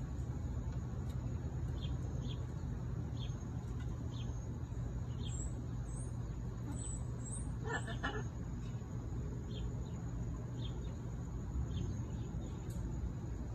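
Faint short bird chirps recur every half second to a second over a steady low background hum. About eight seconds in there is one brief, louder squawk.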